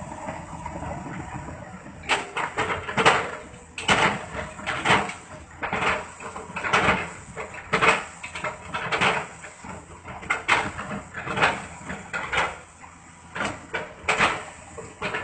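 Heavy machine chipping up felled trunks during replanting: a run of sharp knocks and crunches, roughly one a second, over a low steady engine rumble.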